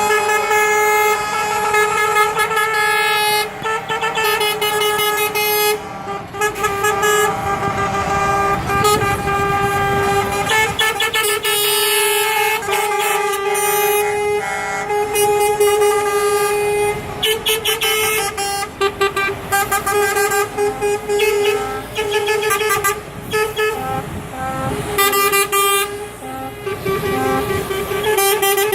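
Truck air horns sounding in long, nearly continuous blasts with short breaks, over the running of truck engines.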